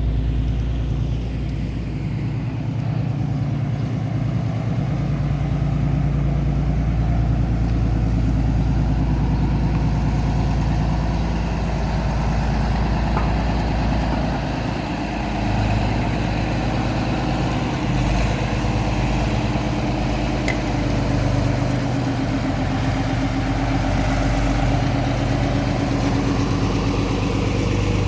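Vehicle engine running steadily at low speed, its note shifting slightly about halfway through.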